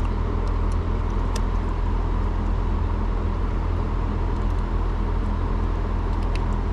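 Steady low hum of running machinery, with a few faint light clicks in the first second or so and once near the end.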